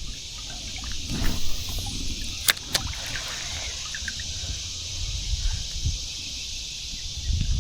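Creek water running in a steady rush, with light knocks and two sharp clicks from the canoe and gear between two and three seconds in.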